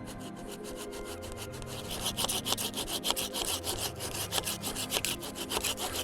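Hand saw cutting firewood: quick, even back-and-forth strokes through the wood, getting louder about two seconds in.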